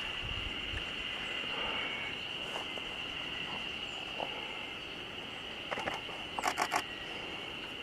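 Siberian blue robin singing one short phrase near the end: a couple of soft notes, then four quick loud notes. A steady high-pitched drone runs underneath.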